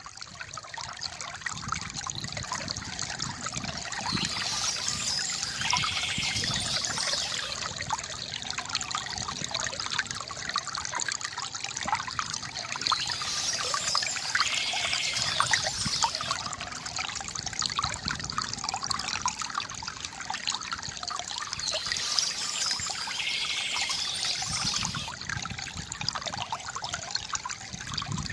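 Bamboo fountain's water trickling and splashing steadily.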